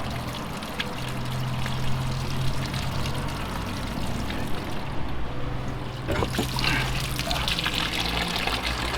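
Fluid trickling out of a disconnected pipe connection on an air-to-water heat pump as the last of the fluid in the unit drains out. The trickle turns quieter for a moment about five seconds in, then picks up again.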